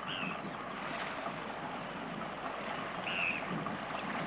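Outdoor harbour ambience: a steady noisy wash of water and air, with a short bird call right at the start and another about three seconds in.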